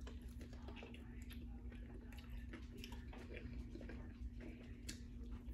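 Close-up chewing of a bite of sub sandwich: faint, irregular wet mouth clicks and soft crunches, over a steady low hum.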